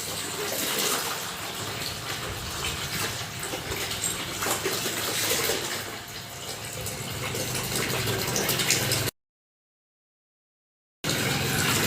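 Water running from a hose and splashing over a toy car as it is washed. It cuts off abruptly about nine seconds in, leaving silence.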